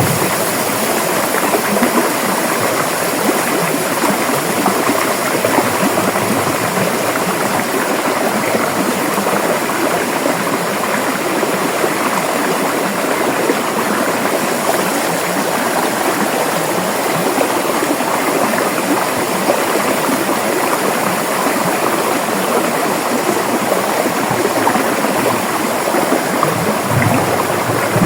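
River water flowing and splashing, a steady rushing with no break.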